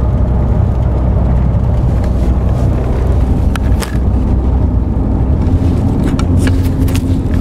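Inside the cab of a 1999 Ford Ranger pickup driving on a snowy highway: steady engine and road rumble, with a few sharp clicks near the middle. Late on, the engine note changes and a steady higher tone comes in as the truck is dropped to third gear to raise the revs, keeping up oil pressure in an engine that is losing it.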